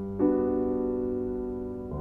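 Slow background piano music: sustained chords, with a new chord struck about a quarter second in and another just before the end, each fading slowly.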